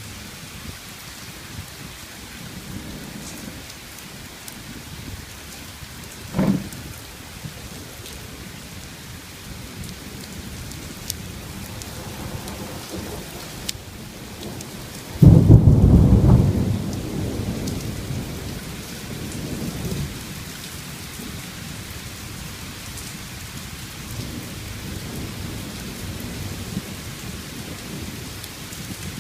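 Steady rain falling, with thunder. A loud, close clap about halfway through rumbles away over several seconds, and fainter low rumbles come and go.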